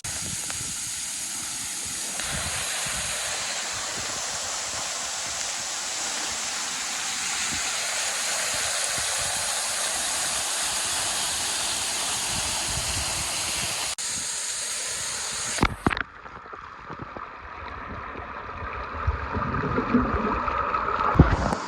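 Rushing water of a forest waterfall, a steady dense hiss close by. About sixteen seconds in it cuts off abruptly to a quieter stretch of running water with wind rumbling on the microphone.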